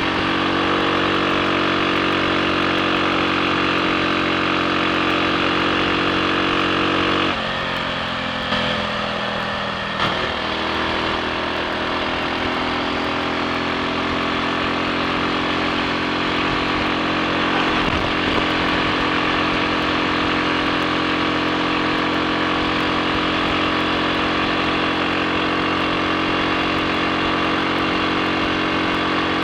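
Triumph Sports Cub's single-cylinder four-stroke engine running steadily on the road, with no misfiring or cutting out. About seven seconds in, the note drops and eases off for a few seconds, then settles back into a steady run.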